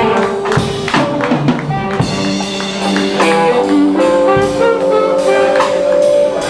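Blues band playing live: electric guitar, drums and sustained horn or organ-like notes.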